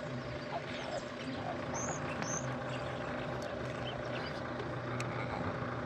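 A steady low engine-like hum, with two short high bird chirps about two seconds in and a few fainter chirps scattered through.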